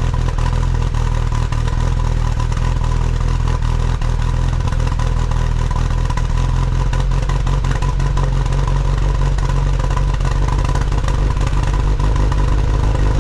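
Lotus Exige S1's Rover K-series four-cylinder engine idling steadily through its muffler just after start-up: a deep, even exhaust drone with a faint steady whine above it.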